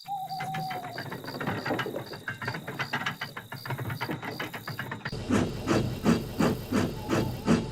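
Steam locomotive sound effect: puffs and steam hiss, with the exhaust beats settling into an even chuff of about four a second over the last few seconds.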